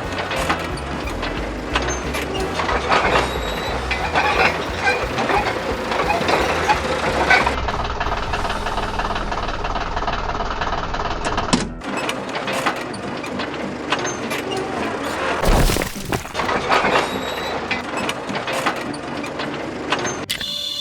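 Construction machinery sound effects: a low engine rumble with dense clanking and rattling. The rumble stops about halfway through, and the clatter goes on.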